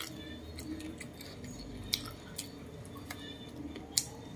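Close-miked chewing of roast chicken: wet mouth sounds with short sharp clicks. One click stands out about halfway through and a louder one near the end.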